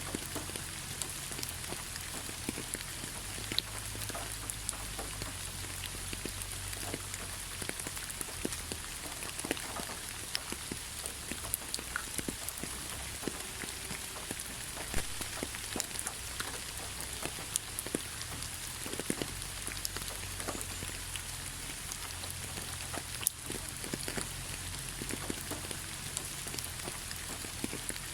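Heavy rain falling steadily: a dense, even hiss with many individual drops striking close by as sharp clicks.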